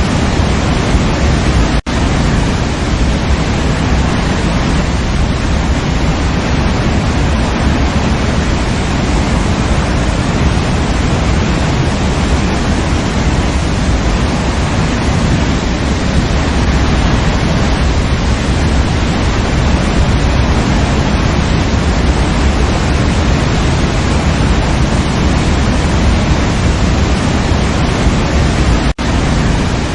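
Waterfall rushing steadily, a dense, even roar heaviest in the low end, cut by two split-second gaps: one about two seconds in and one near the end.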